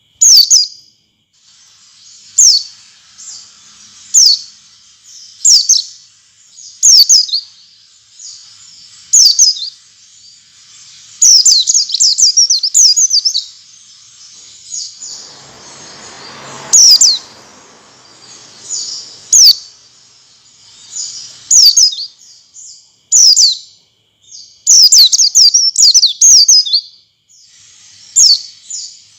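White-eye (pleci) calling: short, sharp downward-sweeping chirps repeated every second or two, bunching into quicker runs twice. It is a lure call used to draw caged white-eyes into song. A brief rushing noise comes about halfway through.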